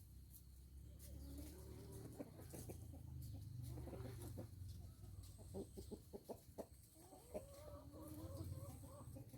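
Chickens clucking faintly, with drawn-out wavering calls and a quick run of short clucks partway through, over a steady low hum.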